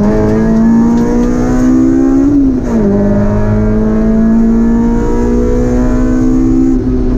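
Honda S2000's four-cylinder engine heard from inside the cabin under hard acceleration. Its pitch climbs steadily, drops sharply with an upshift about two and a half seconds in, then climbs again, with another dip near the end.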